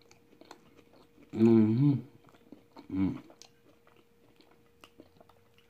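A man chewing cheese fries, with small wet mouth clicks, and a closed-mouth voiced hum lasting under a second about a second and a half in, then a shorter one near 3 s.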